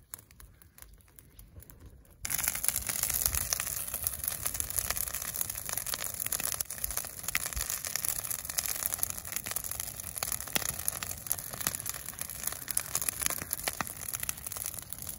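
Bonfire of branches burning with dense crackling and popping, which starts abruptly about two seconds in after a quieter stretch.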